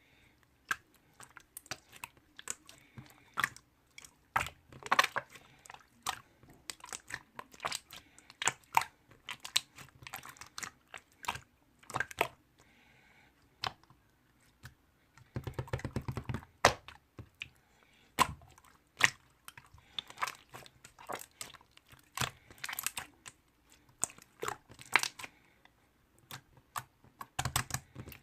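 Close-miked chewing and crunching of a snack, with many sharp wet mouth clicks and crackles, denser for a couple of seconds midway.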